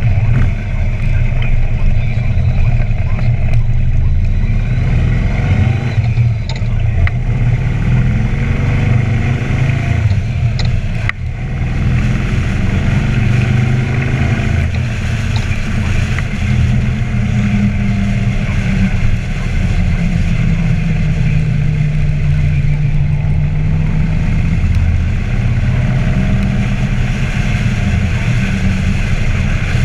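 2012 Harley-Davidson Ultra Limited's Twin Cam 103 V-twin, fitted with an Andrews 57H cam and true dual exhaust, running under way. Its pitch rises as it accelerates, about eight to eleven seconds in, dips briefly, then holds a steadier cruise.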